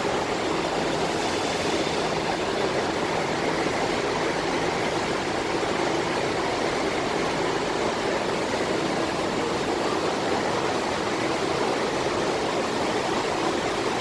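Steady rain falling: a dense, even hiss with no breaks, over a faint low hum.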